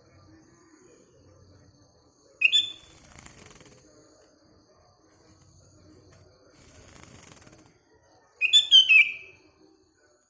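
Sooty-headed bulbul calling: one short note about two and a half seconds in, then a quick phrase of several notes near the end, over a faint background hiss.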